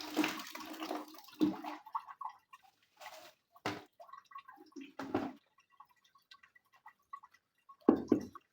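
Water splashing and draining in a Soviet washing machine's tub, dying away in the first second or so, then dripping, with a few separate clunks, the loudest near the end.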